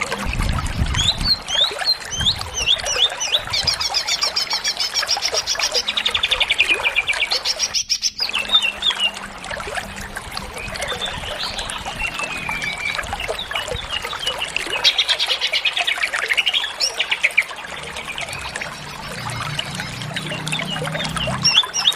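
Greater green leafbird (cucak ijo) singing a continuous, varied song of quick chirps and fast rattling trills, full of mimicked phrases (isian), with a brief break about eight seconds in.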